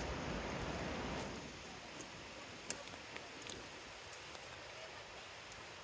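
Steady rushing noise of a distant waterfall, dropping somewhat in level about a second in, with a few faint clicks over it.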